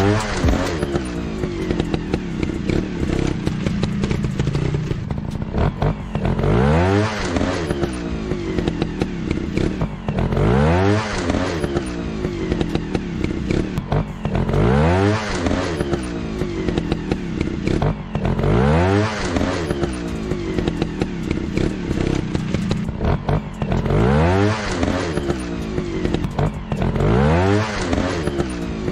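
Dirt bike engines running, with the revs climbing and dropping back about every four seconds, over scattered clattering clicks.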